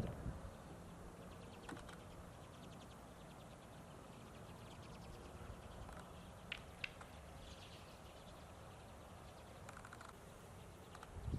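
Common redpolls giving faint, scattered short calls, with a couple of sharper chips a little past the middle.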